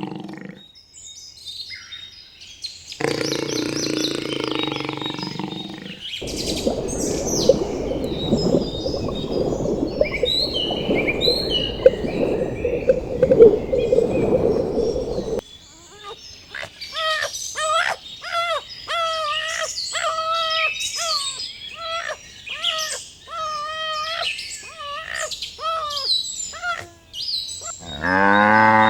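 A run of different animal calls. Birds chirp and call at first. A dense, noisy stretch lasts about nine seconds. Then a bird repeats a short call over a dozen times, about once a second. Near the end a cow's low moo begins.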